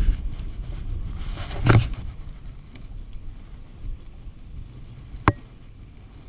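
Wind buffeting the microphone as a low rumble, easing after the first two seconds, with a loud thump about a second and a half in and a single sharp knock about five seconds in.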